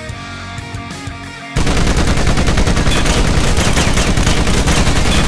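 Background music, then about a second and a half in, sudden loud automatic gunfire sound effects: a dense, rapid, unbroken stream of shots that drowns out the music.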